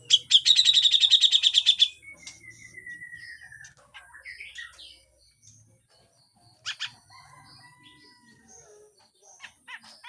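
Cucak jenggot (grey-cheeked bulbul) calling: a loud, harsh rattle of about eleven rapid notes a second lasting nearly two seconds, then a falling whistle and scattered chirps and short whistles.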